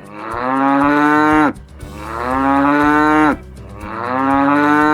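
Cow mooing three times, each a long moo of about a second and a half that drops in pitch at the end.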